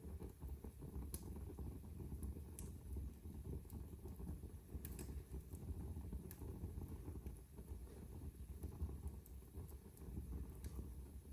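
Wood fire burning in a fireplace: a low, steady rumble of flames with scattered small crackles and pops every second or two.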